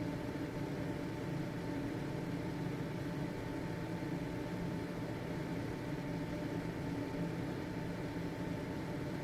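Household ventilation fan running steadily: an even whirring rush of air with a constant motor hum and a faint steady whine.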